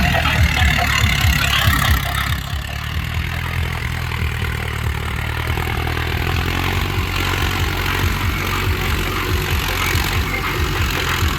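HMT 50 hp tractor's diesel engine running steadily while driving a BOSS rotavator, with a mechanical clatter over the engine note that eases about two seconds in. The engine is running without strain under the rotavator's load.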